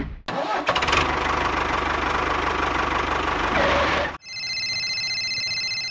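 An engine starting and running for about four seconds, then cutting off suddenly. A steady high-pitched electronic tone with a fast pulse takes over near the end.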